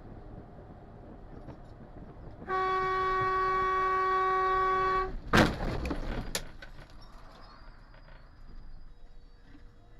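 A car horn blares in one long blast of about two and a half seconds, then cuts off; a split second later comes a sudden loud bang with a brief clatter after it, the sound of a collision.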